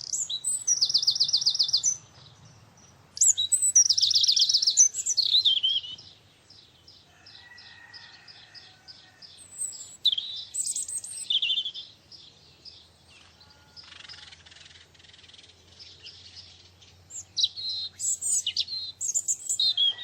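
Small songbirds singing: several loud, rapid trilled phrases a few seconds apart, with quieter chirps between.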